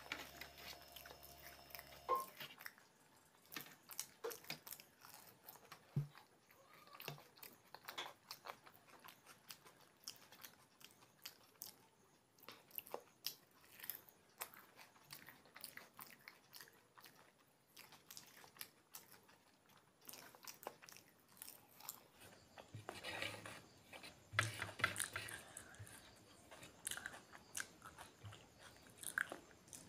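Fuchka (pani puri) being bitten and chewed close to the microphone: a run of sharp crisp crunches and chewing noises, busiest in the last several seconds.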